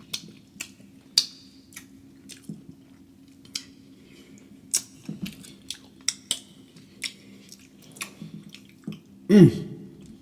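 Close-miked wet chewing and lip smacking of seafood boil, a string of irregular sharp smacks over a steady low hum. Near the end a short loud vocal sound comes from the eater.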